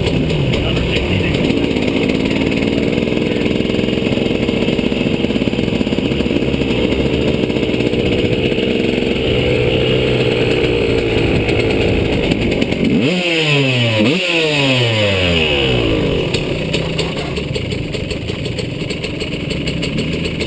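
KTM motocross bike engine running under varying throttle. About two-thirds of the way in, the revs rise and drop off sharply twice. After that the engine runs lower and quieter.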